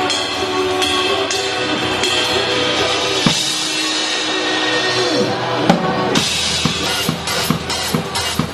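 Drum kit played along to a pop song's backing track: bass drum, snare and cymbals over the music, settling into a steady beat of about two hits a second from about six seconds in.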